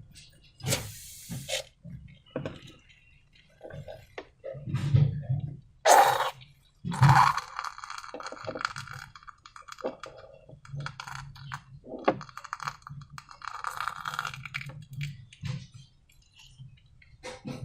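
Handling sounds from slime-balloon making: scattered taps and clinks of small hard objects, the loudest a few seconds in. Longer stretches of crackly rubbing and squishing follow.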